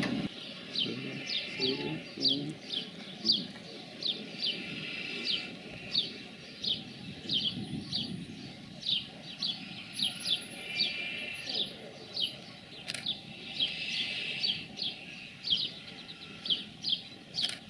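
A small bird chirping over and over: short, sharp notes that fall in pitch, about one or two a second, over a low steady rumble.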